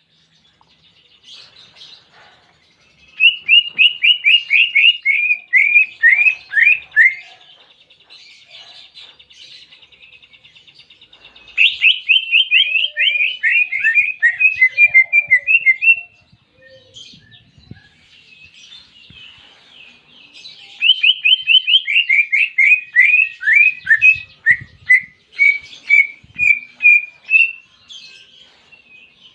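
Cucak ijo (green leafbird) singing canary-like fill-in phrases: three loud runs of rapid, falling chirps, each several seconds long, with soft twittering between.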